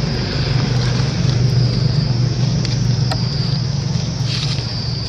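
A steady low motor hum, like a vehicle engine running nearby, with a steady high drone above it and a few faint clicks.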